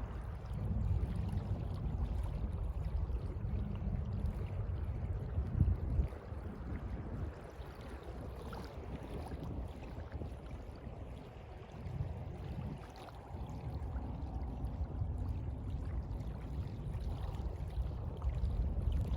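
Sea waves washing, a low rumbling noise that swells and ebbs, with a brief louder surge about six seconds in.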